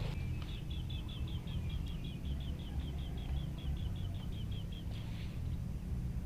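A bird calling a rapid, even run of short high chirps, about seven a second, for roughly four seconds, over a steady low rumble.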